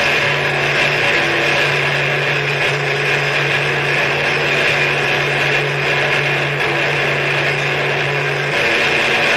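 Harsh noise music: a loud, steady wall of noise with a constant low hum under a bright hissing band. The hum drops out briefly near the end.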